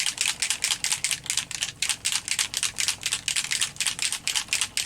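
A spray bottle of shimmer mica spray being shaken hard, its contents rattling in a fast, even rhythm of about six rattles a second, to mix it before spraying.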